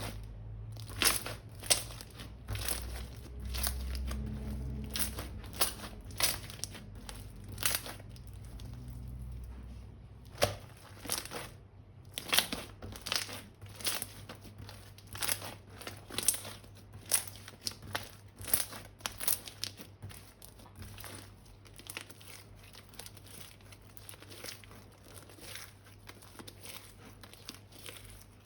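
Crinkling and sharp crackling as slime-making materials are handled, in irregular clusters of crackles, with a low rumble under them for roughly the first third.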